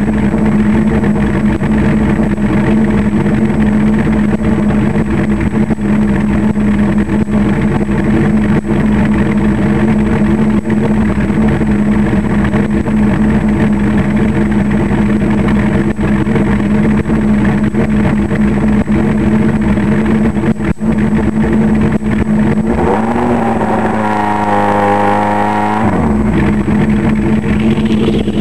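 Suzuki GSX-R1100 inline-four motorcycle engine running loudly at a steady pitch. About 23 seconds in, a second engine note climbs in pitch for a few seconds, then drops away.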